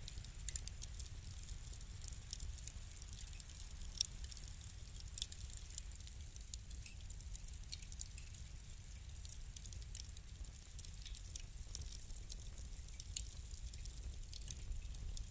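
Wood fire crackling: irregular sharp pops and ticks over a steady low rumble of the burning fire, with the loudest pop about four seconds in.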